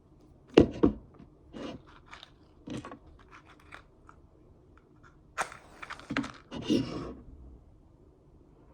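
Handling noises in a small room: two loud knocks about half a second in, scattered short rustles and clicks, then a longer stretch of rustling and clatter from about five to seven seconds.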